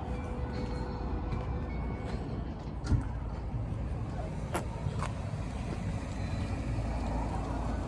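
Steady low rumble of a running car engine, with a few sharp clicks and a single thump about three seconds in.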